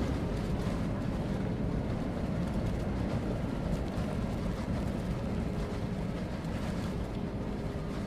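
Airbus A320 landing: a steady low rumble of engine and air noise, with a faint hum that comes and goes.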